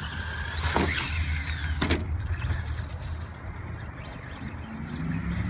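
Electric whine of a Team Associated SC10 RC short course truck's brushless motor, revving sharply up and back down about a second in, with a sharp knock just before two seconds, as when the truck lands from a jump. The whine then drops off and only a low steady hum is left.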